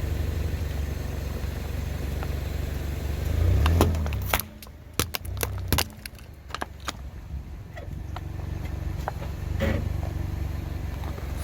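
A car engine runs with a steady low rumble that swells briefly as the car rolls forward. Then a run of sharp cracks and crunches comes about four to six seconds in, and a few more near ten seconds, as the tyre crushes brittle objects.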